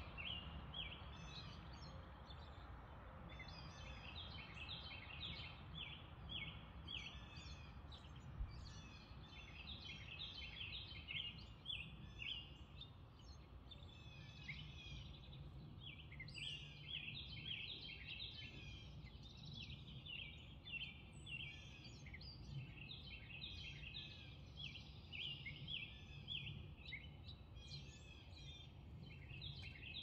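Birds chirping: rapid clusters of short high calls repeating throughout, over a faint steady low rumble.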